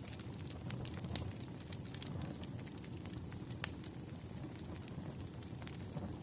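Burning firewood crackling: irregular sharp pops and snaps, one standing out about three and a half seconds in, over a low steady rumble of the fire.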